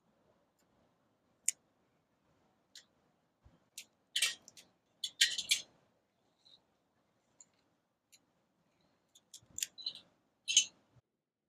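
Small dry twigs being snapped and handled as kindling: scattered sharp cracks and clicks, with two bunches of them, about four seconds in and again near the end.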